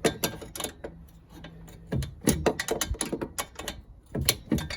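Metal clicks and clinks of hand tools working on a classic Mini engine's carburettor linkage as a rod is worked loose, with a quick run of clicks in the middle.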